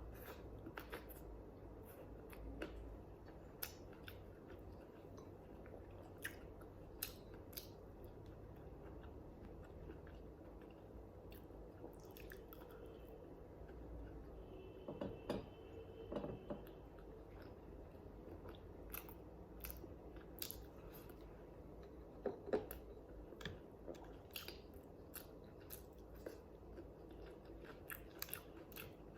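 A person chewing and biting food close to the microphone, with scattered small crunches and sharp mouth clicks. A few louder crunches come about halfway through and again a little later.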